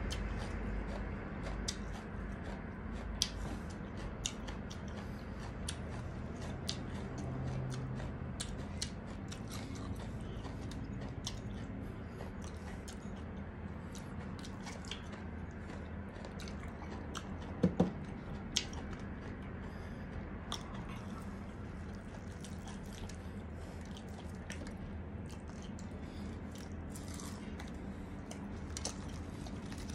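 Close-up chewing and crunching of breaded fried chicken and okra, with many small crisp clicks throughout. A brief louder sound stands out a little past halfway.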